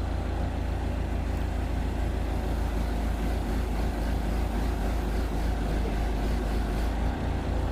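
Backhoe engine running steadily with a deep rumble, under load as the machine lifts.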